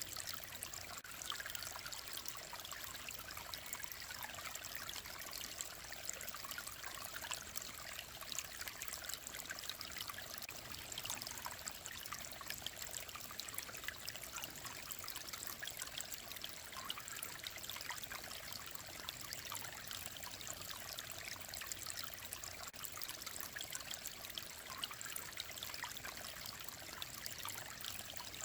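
Clear mountain stream running over rocks, a steady trickling and babbling of shallow water.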